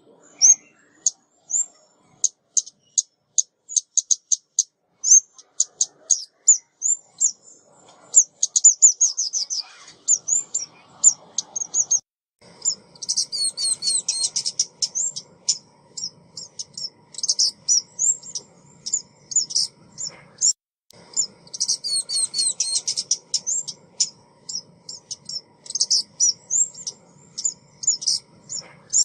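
Small songbird, sold as a female 'ốc mít' lure call, giving rapid series of short high chirps and twittering notes. From about halfway through the phrases come thicker and overlap, over a faint low background rumble.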